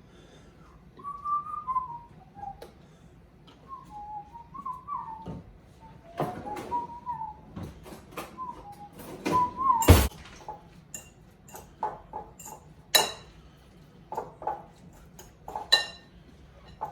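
A person whistling a meandering tune while mixing food in a bowl, with utensils knocking and clinking against the dish. A loud knock comes about ten seconds in, followed by several ringing clinks.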